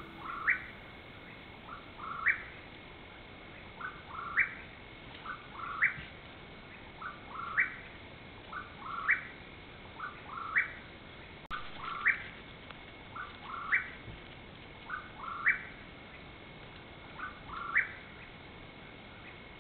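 A bird calling over and over, about every second and a half: each call a short lower note followed by a quick sharply rising note.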